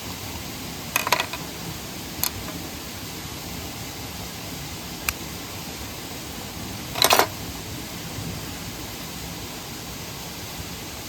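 Steady rush of a mountain stream and waterfall, with a few short sharp knocks about a second in, at two and five seconds, and a louder cluster of knocks around seven seconds.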